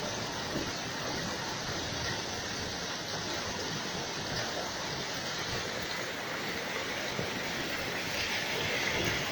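Steady rain falling during a thunderstorm, an even hiss that gets a little louder near the end.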